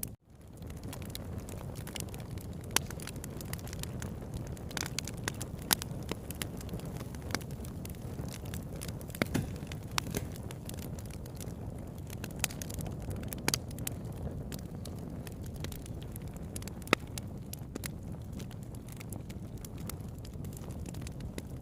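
Wood campfire burning: a steady low rush of flame with irregular sharp crackles and pops from the burning wood. The sound drops out briefly right at the start, then fades back in.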